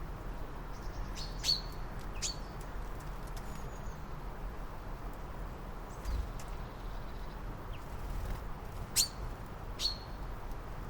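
Small bird calling with short, sharp chirps that sweep steeply down in pitch, about five of them at irregular intervals of one to three seconds. A steady low background rumble lies under them.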